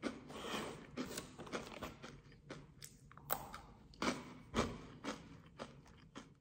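A person chewing food with the mouth close to the microphone: irregular soft crunches and wet mouth clicks, several a second, with a few louder crunches along the way.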